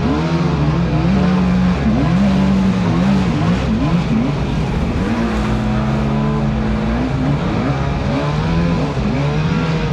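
Radio-controlled boat's motor running under way, its pitch rising and falling as the throttle changes, over a steady hum.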